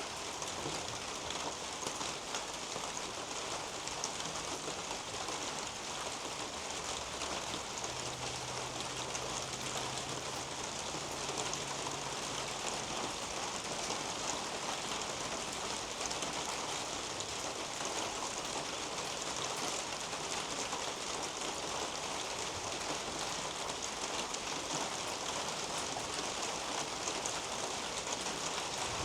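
Steady rain falling on garden foliage, a dense even patter of drops. A faint low hum comes in for a few seconds near the middle.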